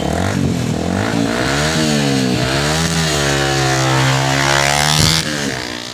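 Yamaha R15 V2's 150 cc single-cylinder engine revving, its pitch rising and falling several times, then holding high before cutting off suddenly about five seconds in.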